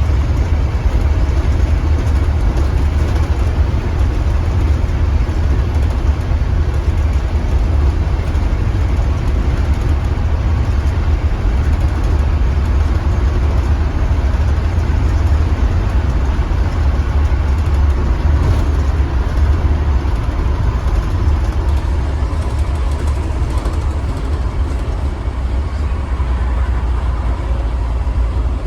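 2015 Blue Bird Vision school bus running, heard from inside the bus: a steady low engine and road rumble.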